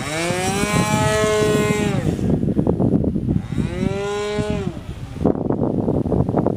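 Model airplane's .46 two-stroke glow engine and propeller flying overhead, its pitch rising and then falling in two long sweeps. About five seconds in, wind buffeting the microphone takes over as a rough rumble with crackles.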